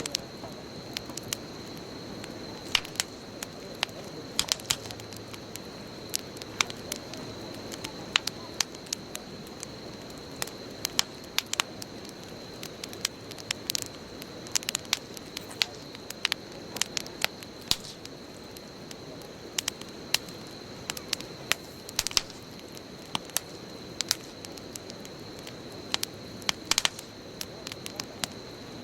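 Wood bonfire burning: a steady low rush of flame with frequent sharp, irregular crackles and pops from the burning wood.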